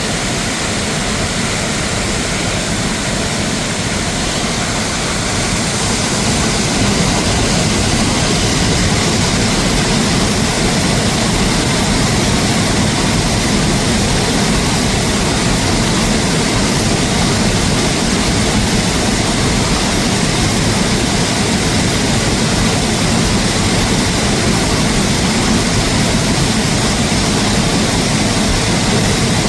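Rushing water: a loud, steady, even hiss with no distinct events, growing slightly louder about six seconds in.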